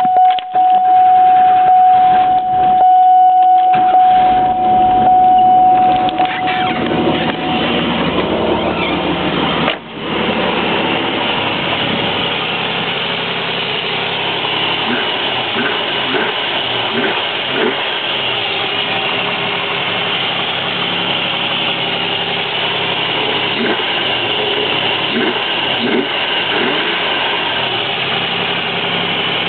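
The 3.1-litre V6 of a 1994 Chevrolet Cavalier Z24 running, with a steady high-pitched whine over it for about the first seven seconds that then fades away. After a brief dip near ten seconds the engine runs on at a steady idle.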